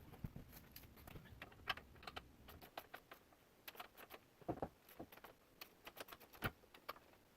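Faint, irregular light clicks and taps of hand tools and metal hardware being handled, a few a second, with a couple of louder knocks about halfway through and near the end.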